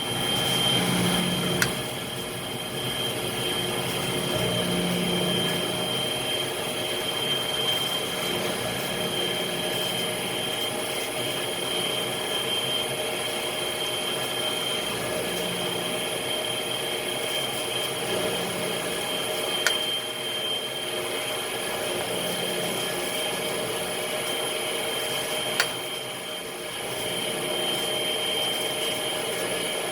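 Detergent and rinse-aid dosing system of a Classeq H6000 commercial dishwasher running: a steady small-motor whir with a constant high whine and a low hum that swells and fades, broken by three sharp clicks.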